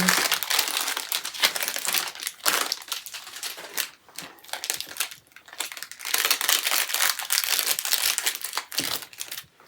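Packaging crinkling and rustling as it is handled, a dense run of crackles with a short lull about four seconds in.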